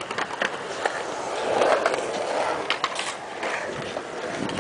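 Skateboard wheels rolling over concrete, the rolling growing louder about halfway through, with a few sharp clacks of the board.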